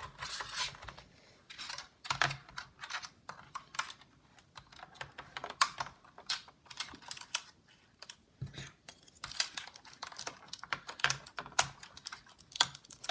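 Irregular small clicks, taps and rattles of plastic and metal laptop parts being handled during reassembly with a precision screwdriver.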